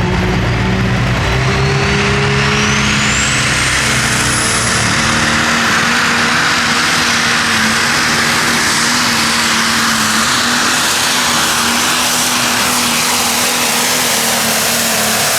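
Modified pulling tractor under full power making its run down the track. The engine noise is loud and steady, with a high whine that climbs over the first few seconds and then holds.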